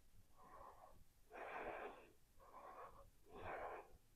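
Faint breathing: four short breaths in quick succession, each about half a second long.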